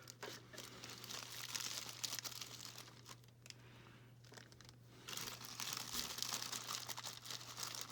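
Packaging crinkling and rustling as tiny toy accessories are handled and unwrapped, quieter for a couple of seconds midway and then louder again.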